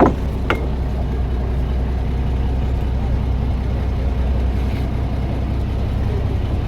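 Fishing boat's engine running steadily at idle, a low even drone. Two brief sharp sounds at the very start and about half a second later.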